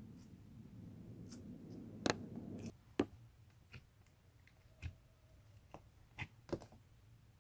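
Slime being pressed and pulled, giving scattered sharp clicking pops, the loudest about two seconds in. A low hum under it stops a little before the middle.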